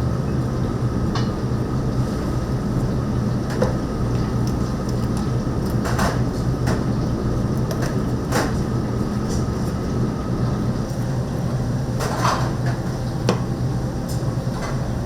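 Kitchen ambience: a steady low mechanical hum with a thin steady tone that stops about eleven seconds in, broken by scattered sharp knocks and clicks, several of them close together around six, eight and twelve seconds in.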